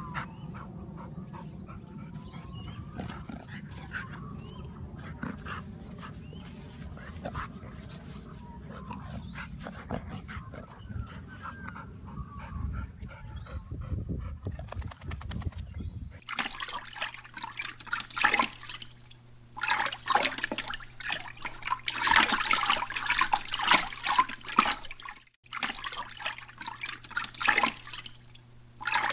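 A dog whining in short rising and falling whimpers over a low rumble. About halfway through the sound changes to loud, irregular bursts of splashing water over a steady hum.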